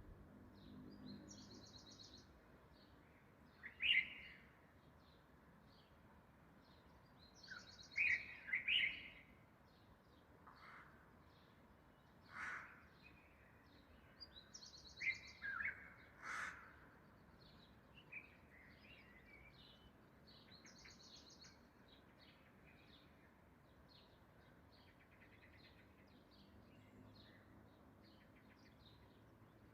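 A crow giving a few short, harsh caws, in clusters about 4, 8–9 and 12–16 seconds in. Smaller birds chirp throughout, with a high buzzy trill that repeats every few seconds.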